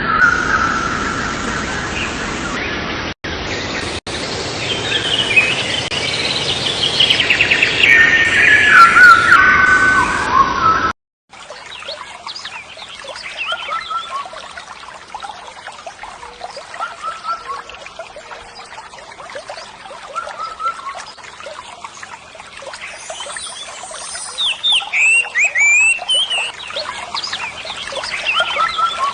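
Small birds chirping, with short repeated chirps and a burst of quick gliding calls about two thirds of the way in. The first third is a louder stretch of falling pitched calls or sounds that cuts off abruptly.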